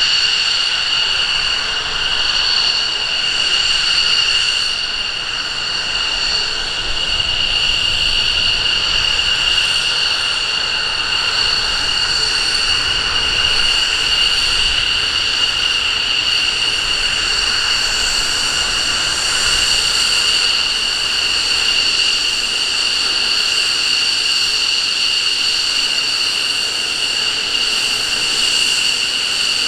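F-15 Eagle's twin jet engines running with a steady high-pitched whine over a rushing roar, holding an even pitch and level throughout.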